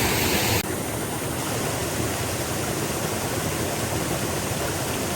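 Waterfall rushing steadily. The sound drops a little in level abruptly just over half a second in, then carries on evenly.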